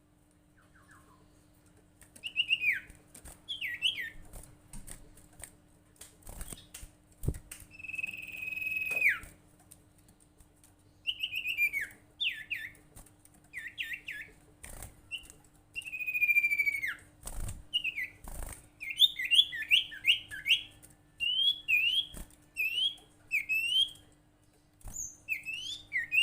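Sirtu (common iora) calling: sharp whistled chirps, many sliding downward, repeated in quick runs, with two longer drawn-out whistles that fall in pitch. Scattered clicks and a faint steady hum lie underneath.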